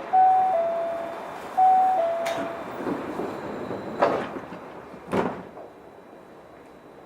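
Osaka Monorail 1000-series door chime: a two-note falling chime sounding twice, then the car's sliding doors closing with three sharp knocks, the last two loudest, before the train sets off.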